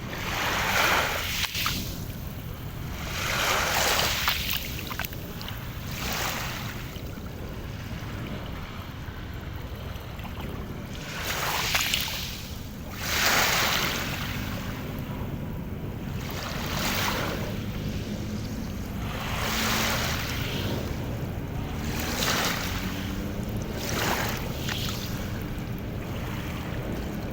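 Sea waves washing in, one surge every two to three seconds, over a steady low rumble of wind on the microphone.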